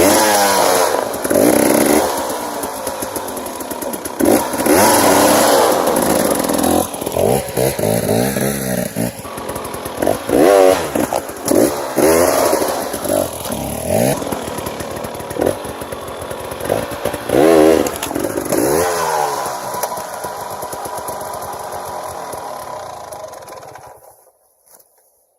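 Dirt bike engine revving in repeated short bursts, rising and falling in pitch, as it is ridden over a log. It then fades and cuts off suddenly near the end.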